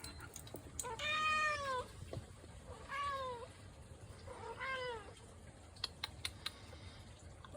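Cat meowing three times, each call rising and then falling in pitch, with a few light clicks near the end.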